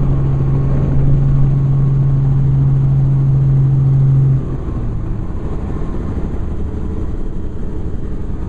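Helicopter running: a strong steady low hum over a rumbling noise. The hum cuts off abruptly about halfway through, leaving a quieter, rougher rumble.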